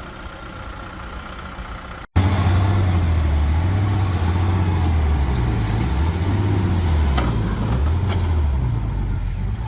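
Heavy diesel engine of a tractor or truck working in mud, running with its pitch wavering up and down under load. It is quieter at first, then after a brief cut about two seconds in it comes back much louder and closer.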